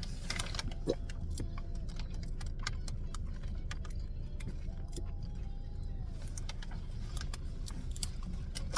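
Scattered small clicks and taps of plastic takeout containers and utensils being handled during eating, over a steady low rumble.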